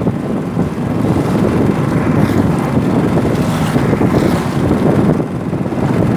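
Strong wind buffeting the microphone aboard a canoe on choppy river water: a steady, loud low rumble.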